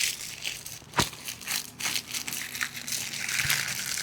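Oreo cookies being crushed by hand inside their plastic wrapper: irregular crinkling and crunching, with a sharp crack about a second in.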